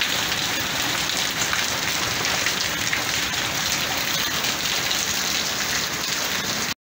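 Heavy rain pouring steadily, with water streaming off the edge of a porch roof; it cuts off suddenly near the end.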